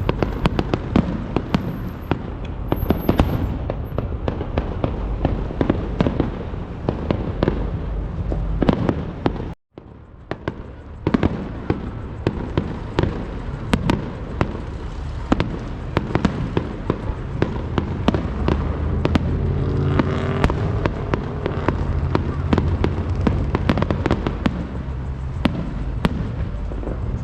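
Fireworks show: a dense, continuous run of bangs and crackles over a low rumble, cutting out briefly about ten seconds in.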